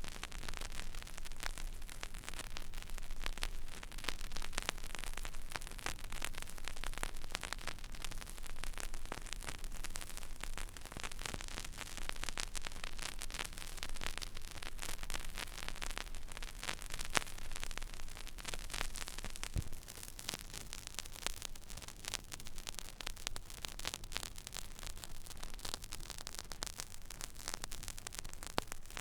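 Turntable stylus riding the empty, silent groove of a vinyl record: steady surface crackle, with many small pops and clicks over a soft hiss and a low hum.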